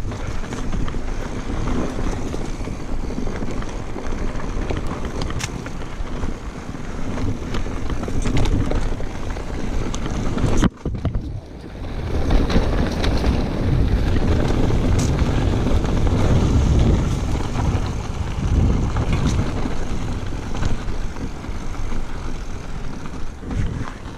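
Mountain bike riding down a dirt singletrack: tyre noise and rattle of the bike, mixed with wind on the microphone. The noise drops out briefly about ten and a half seconds in, then comes back louder.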